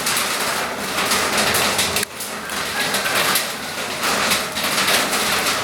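Steady rain falling, a dense hiss with a brief lull about two seconds in.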